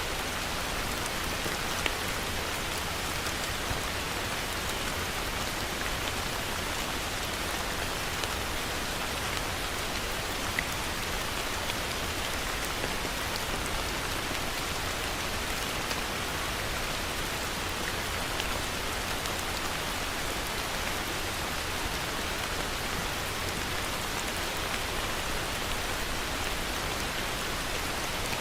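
Steady heavy rain falling and pattering on a surface, with a few sharper single drop hits here and there.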